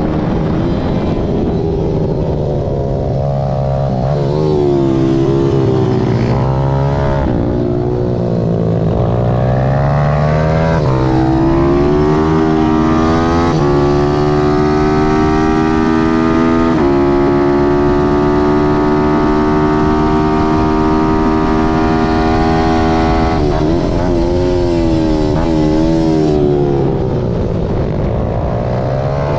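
Zongshen ZS190 single-cylinder four-stroke engine of a Malcor Super Racer pitbike, ridden hard on track. It revs up and down through the gears, then holds a high note at full throttle with two upshifts around the middle. Near the end it drops back with quick blips on the downshifts.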